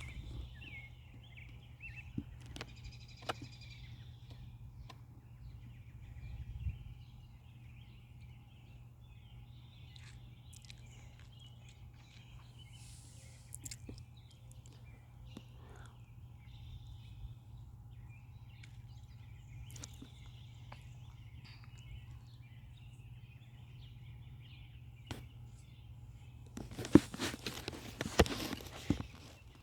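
Outdoor ambience: small birds chirping faintly throughout over a low steady rumble, with a few scattered clicks. Near the end comes a loud burst of rustling and crackling lasting about two seconds.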